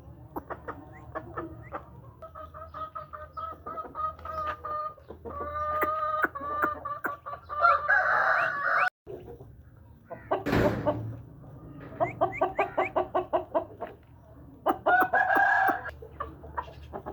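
Aseel roosters crowing and clucking in quick repeated notes, with long held calls. There is an abrupt break about nine seconds in, then a brief rushing burst.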